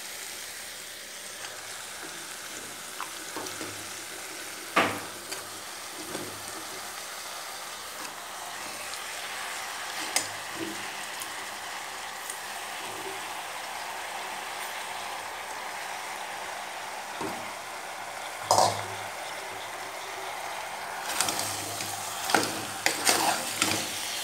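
Freshly added raw chicken pieces sizzling as they sauté in oil in a pressure cooker, with a steady frying hiss. A steel ladle stirring them scrapes and knocks against the pot now and then, more often near the end.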